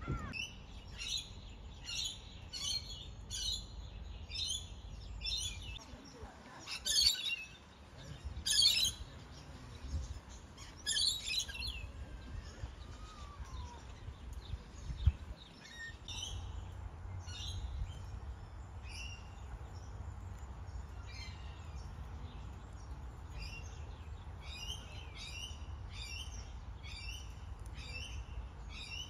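Small birds chirping in quick repeated phrases, several chirps a second, louder in bursts during the first dozen seconds, over a low rumble. A single short thump comes about halfway through.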